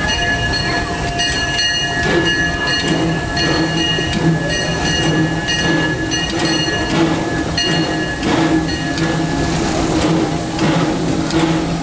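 Disneyland Railroad steam locomotive No. 2 running at low speed, heard from inside its cab, with steady mechanical rumbling and clanking. Several high steady tones ring for the first two seconds, then give way to a steady low hum.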